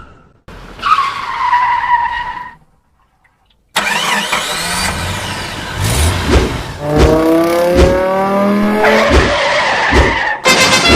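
Car sound effects: a tyre screech that slides down in pitch and stops, a short pause, then an engine revving up again and again in rising sweeps, with a few sharp knocks.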